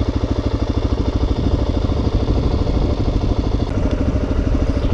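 Suzuki DRZ400's single-cylinder four-stroke engine idling steadily, a rapid even pulse with no revving.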